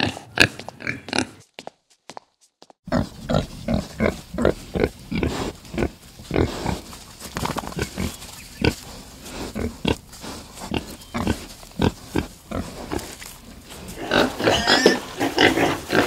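Pigs grunting: a few separate short grunts, then from about three seconds in a quick, uneven run of grunts over a steady background. Near the end the calls come thicker and higher-pitched.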